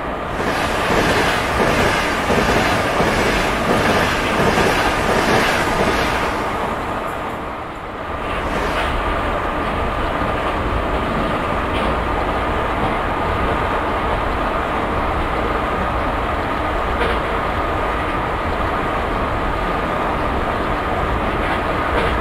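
Simulated sound of an ICE 1 high-speed electric train running along the track at speed. Louder, rhythmically pulsing rolling noise for the first six seconds or so, a brief dip about eight seconds in, then a steady rolling rumble with a faint steady whine and an occasional click.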